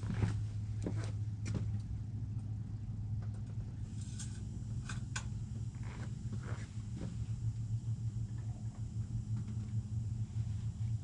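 A steady low engine rumble with a few light clicks and knocks about halfway through.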